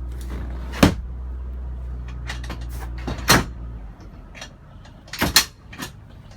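Several sharp knocks of a fiberglass seat lid or hatch being opened and shut on a boat, the loudest about a second in and about three seconds in, with more near the end. A steady low hum sits underneath and stops about four seconds in.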